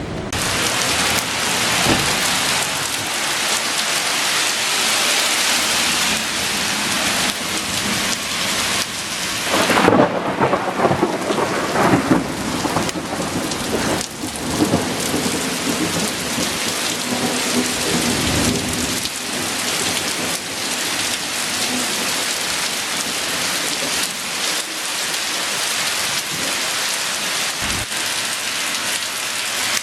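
Heavy rain pouring down steadily in a thunderstorm, with a loud clap of thunder and rumble about ten seconds in.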